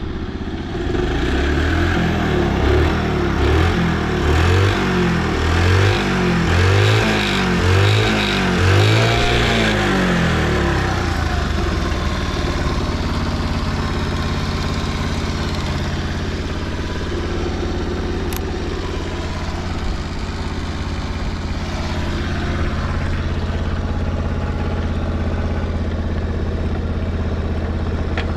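Honda Motra's 49 cc four-stroke single-cylinder engine blipped about seven times in a row, each rev rising and falling, then settling into a steady idle about ten seconds in. It runs quietly with no abnormal noise, in sound health after long indoor storage.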